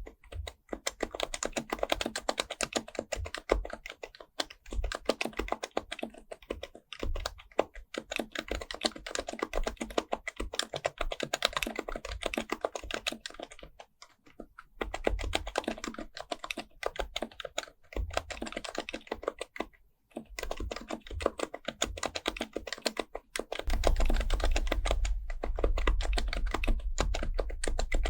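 Fast continuous typing on an HHKB Professional Type-S keyboard's silenced Topre capacitive switches, a dense run of soft keystrokes with a few short pauses. A steady low rumble joins under the typing for the last few seconds.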